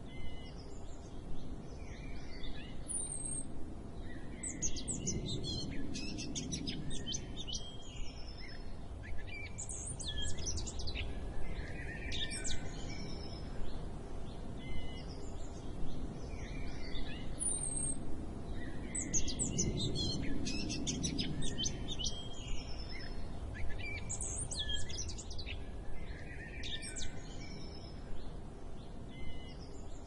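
A chorus of several birds chirping and calling in quick trills and short sweeps over a steady low background noise. The same stretch of birdsong repeats about every 15 seconds.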